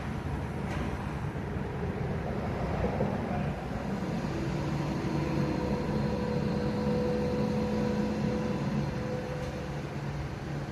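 A large vehicle engine running steadily, with a pitched hum that comes in about four seconds in and holds for several seconds before fading.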